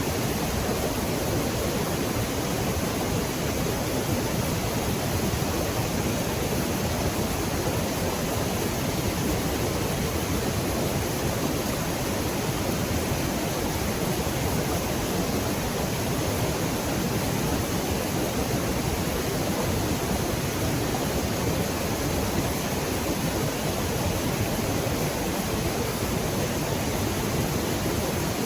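Rushing river water, a steady even noise with no breaks.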